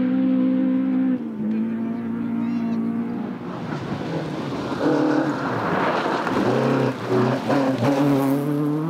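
Rally car engine held at high revs, dropping in pitch about a second in, then revving up and down repeatedly as it is driven through the stage.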